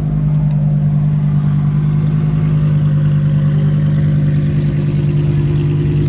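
Supercar engine idling steadily at a constant pitch.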